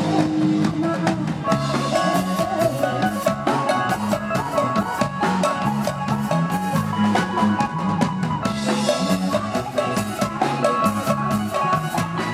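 Live Isan band music with a steady drum-kit beat under a sustained melody.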